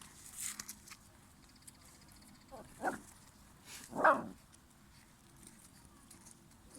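Cane Corso puppies giving two short barks about a second apart, the second louder.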